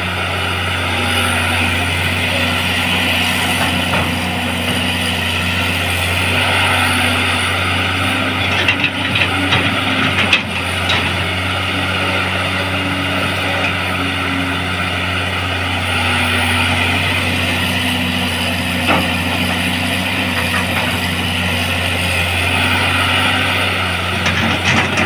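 Caterpillar excavator's diesel engine running steadily under load, with its hydraulics whining and a few clanks around the middle, as it strains to track out of deep mud. Its travel motor is too weak to move the machine.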